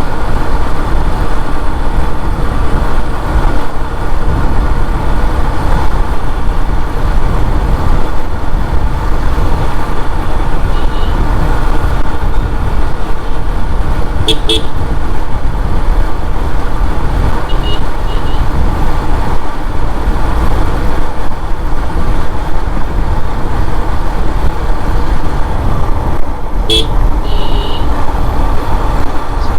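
Riding a motorcycle on the road: a steady rush of wind and engine and road noise on the rider's microphone, with a few short horn toots, about a third and two thirds of the way in and again near the end.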